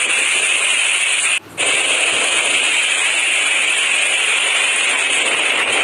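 Cyclone wind, a steady loud hiss that cuts out for a moment about a second and a half in before resuming.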